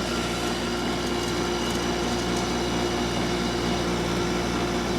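A 2004 Hampton Bay by LG 8,000 BTU window air conditioner running, its fan and compressor giving a steady hum with several held tones. The owner takes the sound for fan motor bearings that are already going.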